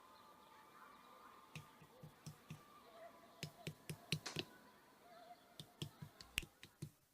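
Faint, irregular light clicks and taps, a couple of dozen of them, starting about a second and a half in and coming thickest near the middle, over a faint steady background.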